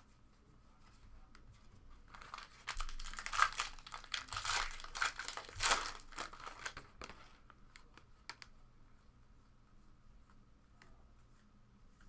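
A trading-card pack's foil wrapper being torn open and crinkled in the hands: a few seconds of loud crackling and ripping, then a few faint clicks.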